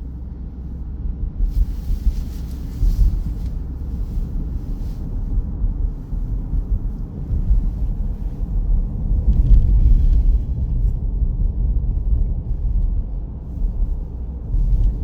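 Steady low rumble of a car driving, heard from inside the cabin, with brief hissing swells about two seconds in and again near ten seconds.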